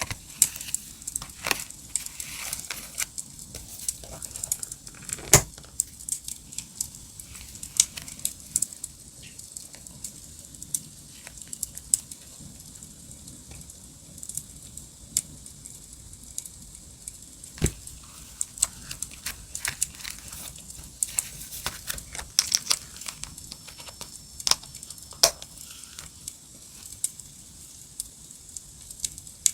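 Wood fire crackling, with irregular sharp pops over a steady hiss, the loudest pops about five seconds in and again past the middle. Paper and stickers rustle and tear alongside it.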